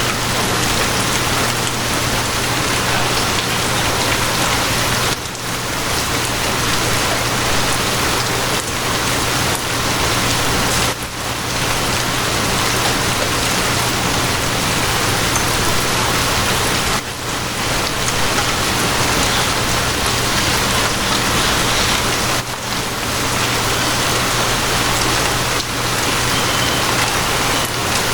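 Steady heavy rain, a dense even hiss, with a steady low hum underneath. The sound dips briefly every five or six seconds.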